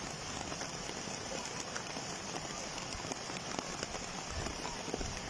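Rain falling steadily, with many separate drops ticking through the patter.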